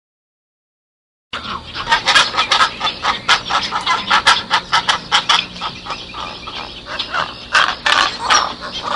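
About a second of silence, then a flock of domestic fowl calling loudly and rapidly, many short calls packed close together.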